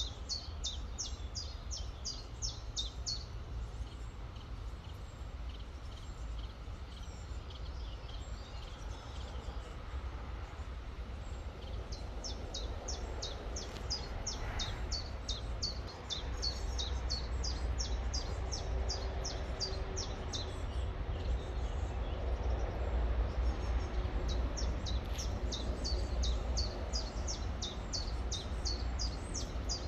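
A songbird singing fast runs of high, downward-sweeping notes, several a second, in three bouts: at the start, from about 12 to 20 seconds, and again near the end. A steady low rumble runs underneath.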